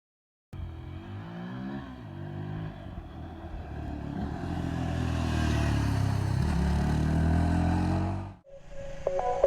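Yezdi Scrambler motorcycle's single-cylinder engine running under throttle while riding off-road, its pitch rising and falling and growing louder over several seconds, then cut off suddenly about eight seconds in.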